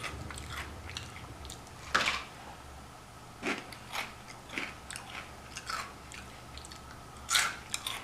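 Close-mic'd crunching and chewing of Flaming Hot Cheetos: a handful of separate crunchy bites and chews, the loudest about two seconds in, the rest spaced a second or so apart.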